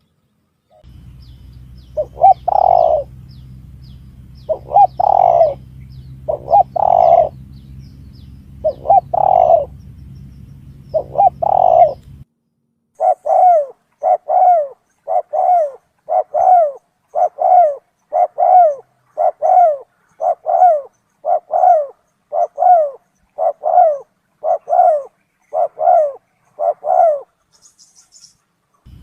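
Recorded spotted dove cooing played as a bird-hunting lure call. For the first twelve seconds a few separate coos sound over a steady low hum. After an abrupt splice the hum is gone, and a rapid run of short, evenly spaced coo notes follows at a little more than one a second.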